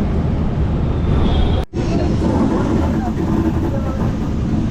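Low rumble inside a train coach with passengers talking. The sound cuts out for an instant a little under two seconds in.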